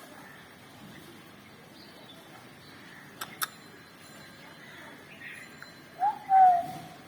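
A bird gives a single short call near the end, a pitched note that drops slightly and then holds. A little earlier come two sharp clicks in quick succession.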